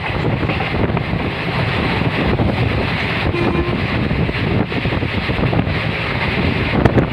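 Passenger train running, a steady rumble with wind buffeting the microphone, and a single sharp knock near the end.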